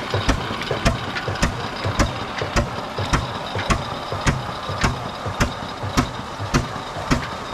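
Old Ruston-type diesel engine running a tubewell pump, slow and steady, with an even beat of about two knocks a second over its continuous mechanical clatter.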